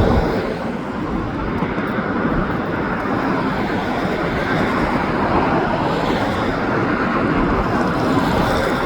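Steady noise of highway traffic, with a slow freight train of auto rack cars rolling past.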